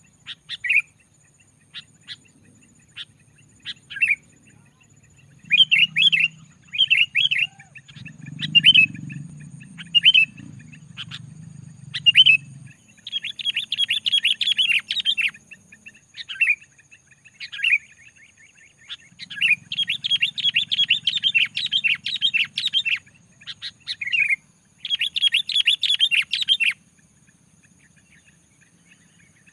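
Sooty-headed bulbul (kutilang) singing: short separate phrases at first, then from about halfway through long bursts of fast, tightly packed chattering song.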